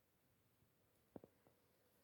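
Near silence: faint room tone, with two or three soft taps a little over a second in.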